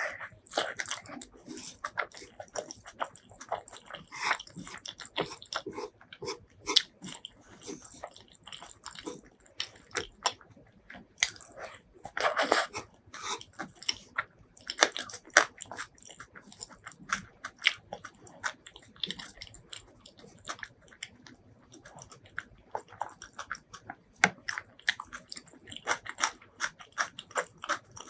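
Close-miked eating sounds: biting and chewing food, a steady run of short, irregular wet clicks and smacks, busiest about twelve seconds in.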